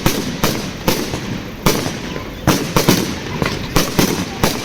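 Fireworks display: a rapid, irregular string of loud bangs, about a dozen, several close together, over a steady background rumble.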